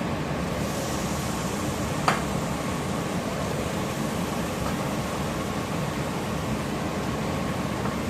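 Steady hiss from a pan of masala frying on the stove. The hiss brightens briefly near the start as chicken goes into the hot pan, and there is a single sharp clink about two seconds in.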